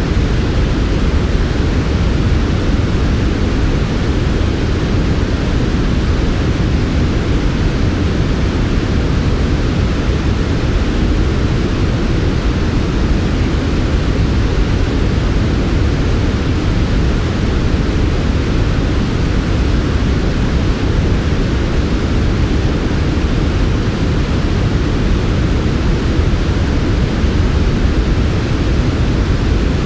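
Steady, unchanging synthetic white noise for sleep: a smooth, even hiss with most of its weight in the low end.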